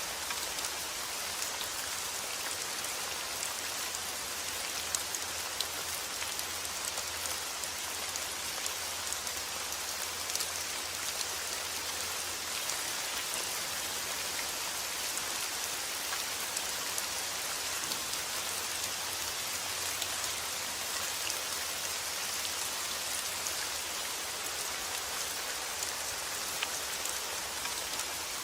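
Steady rain falling, with scattered sharp ticks of single drops through an even hiss.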